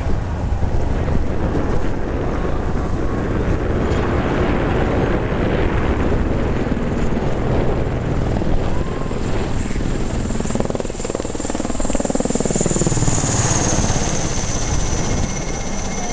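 Search-and-rescue helicopter flying past, its rotor and engine noise steady and loud. About eleven to fourteen seconds in, the pitch of the rotor and a high turbine whine drop as it passes by.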